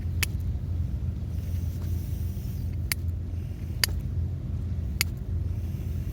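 Steady low rumble of wind and surf at the shore, with four sharp clicks or pops spaced through it.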